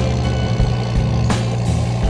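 Tractor engine running steadily with a low hum, with a sharp crack about every second and a half.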